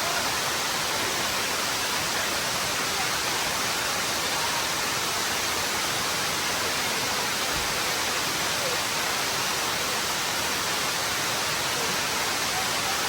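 Waterfall's rushing water: a steady, unbroken roar of falling water.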